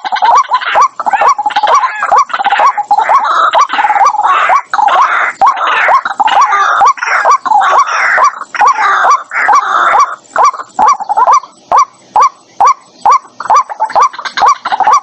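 White-breasted waterhen calling: a fast, unbroken run of short, hooked notes, about two or three a second. From about two seconds in until about ten seconds in, harsher overlapping calls join them. A lure recording played to draw waterhens to a trap.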